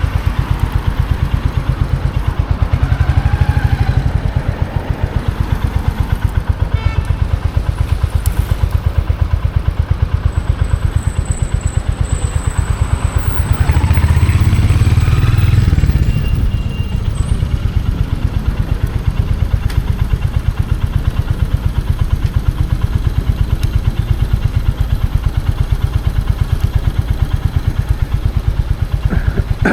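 Royal Enfield Hunter 350's single-cylinder engine running with a steady, even exhaust thump, louder for a couple of seconds around the middle.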